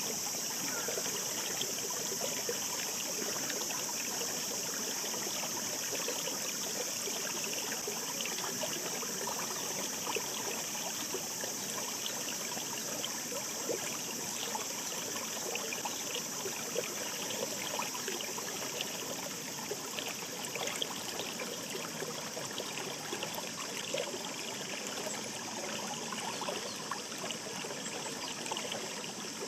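Mountain stream babbling steadily, a continuous wash of flowing water full of small trickles and splashes.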